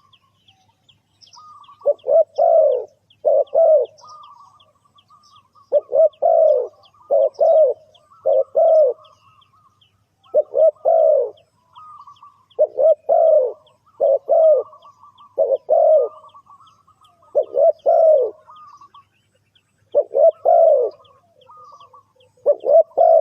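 Spotted dove cooing: repeated phrases of two or three low coos about every two seconds, with a softer trilling note between phrases. A faint fast ticking runs behind it.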